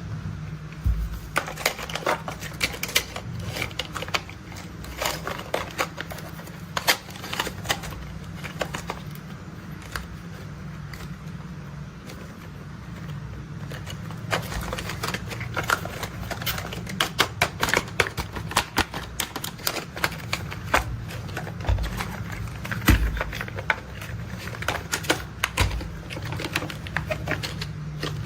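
Plastic toy excavator and dump truck being handled: dense, irregular clicking and rattling of plastic parts over a steady low hum.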